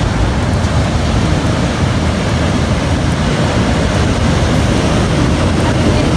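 Wind buffeting the microphone with the wash of surf behind it: a loud, steady rushing noise with a heavy rumble underneath.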